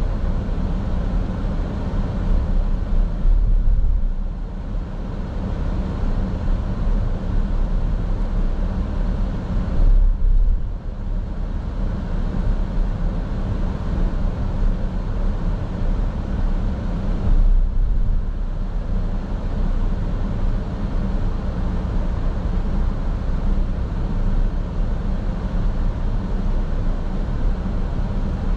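Steady low rumble of a car driving, road and engine noise heard from inside the cabin, easing in its higher part briefly three times.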